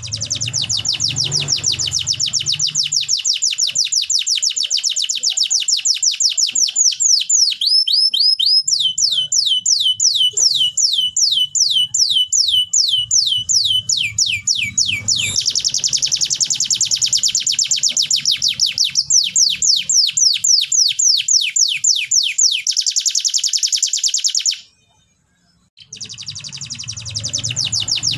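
Canary singing long rapid trills of repeated downward-sweeping notes, switching to a new roll several times. The song breaks off for about a second near the end, then resumes.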